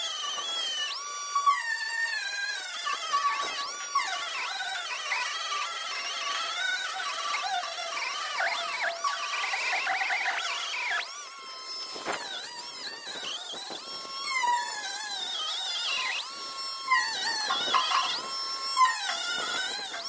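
Handheld power tool grinding and abrading old paint off a boat's metal fuel tank: a high whine that wavers up and down in pitch as the load on the tool changes.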